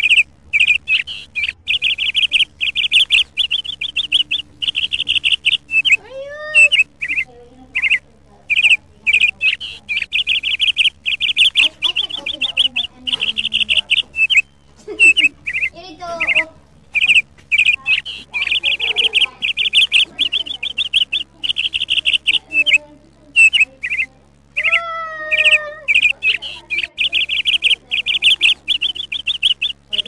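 A small sparrow-like bird chirping in rapid runs of high, quick chirps, each run a second or two long and repeated over and over with short gaps.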